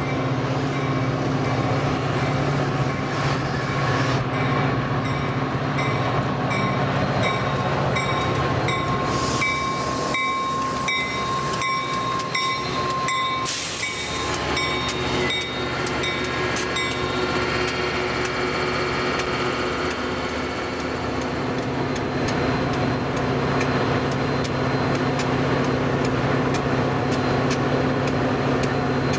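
Metra EMD F40PH-2 diesel locomotive pulling a commuter train into a station and coming to a stop, its engine running steadily. A bell rings about twice a second through the first half, with a steady brake squeal. There is a short burst of hiss about halfway through.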